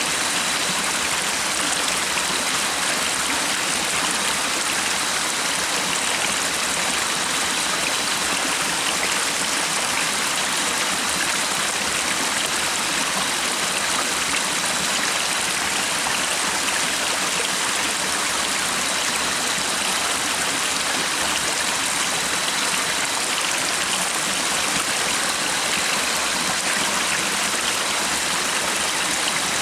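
Stream water running steadily, an even rushing flow with no breaks.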